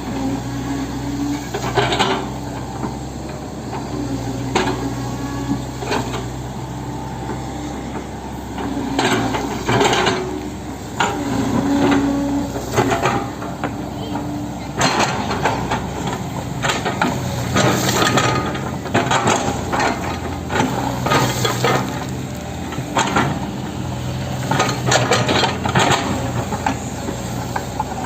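Hitachi 110M excavator's diesel engine running steadily while the machine backfills soil, with frequent sharp metallic clanks and knocks that come thicker in the second half.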